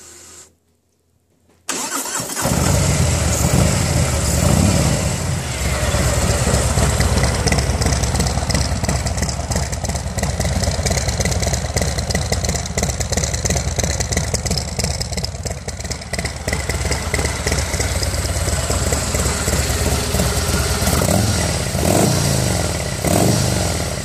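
Harley-Davidson Milwaukee-Eight V-twin, bored out to 114 cubic inches with a Stage 3 kit, breathing through Screaming Eagle high flow mufflers, cranking and catching about two seconds in, then idling with a deep, uneven V-twin lope. It is revved a few times near the end.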